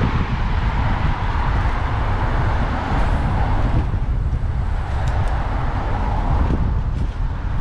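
Riding noise picked up by a camera mounted on a bicycle in city traffic: a steady rumble of wind on the microphone mixed with passing road traffic, with a few faint ticks.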